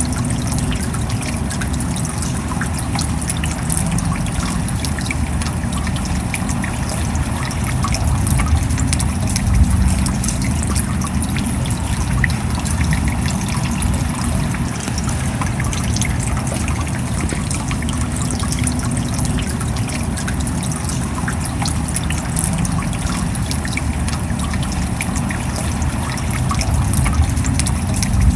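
Steady rain: a dense, even patter of drops over a low rumble.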